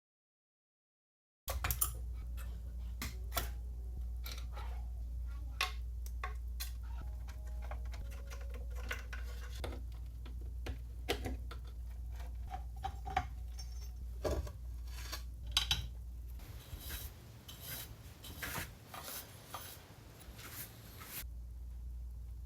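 Small metal parts being handled: irregular clinks, taps and scrapes with brief ringing, over a steady low hum.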